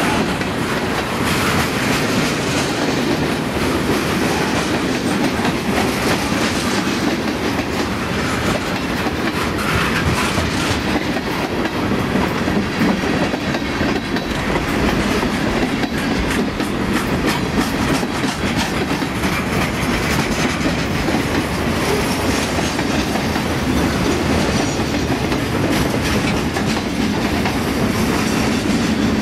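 Freight cars (boxcars, covered hoppers and flatcars) of a mixed freight train rolling past at close range: a steady rumble of steel wheels on rail, with many clicks as the wheels cross rail joints.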